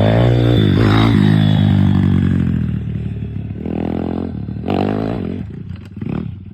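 Dirt bike engine revving hard, then easing off, followed by three short throttle blips about a second apart, the last one weaker.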